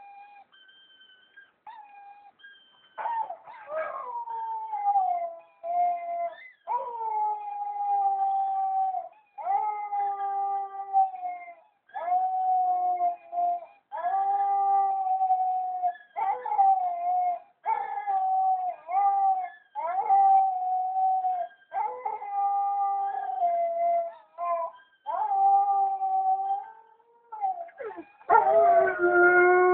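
White German Shepherd Dog howling: faint whimpers at first, then from a few seconds in a run of long howls, each one to two seconds long with short breaks between them. Near the end comes a louder, lower howl.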